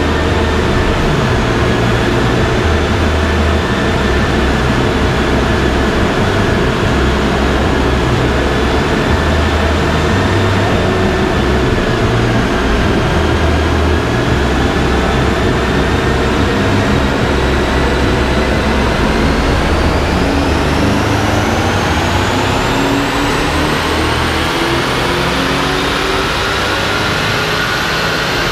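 BMW X5's V8 running under load on a chassis dyno, held at a steady speed with a high whine over it, then, about two-thirds of the way in, climbing smoothly in pitch as it accelerates through a power pull.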